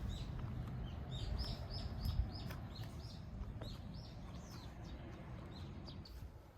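Small birds chirping: a rapid series of short, high, downward-sliding chirps that thin out toward the end, over a low background rumble.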